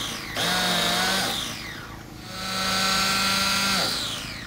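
Electric starter box cranking a new Werks B5 nitro RC engine in short pushes: an even motor whir spinning the engine over, twice, the second push longer. The engine does not fire yet; it is still drawing fuel up the line on its first start-up after priming.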